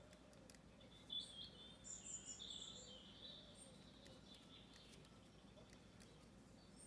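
Faint birdsong: a short run of high chirps about one to three seconds in, over a quiet background.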